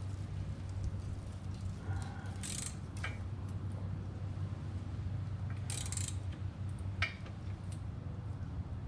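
Hand-tool work on a motorcycle: two short metallic rasps, about two and a half and six seconds in, each followed by a sharp click, over a steady low hum.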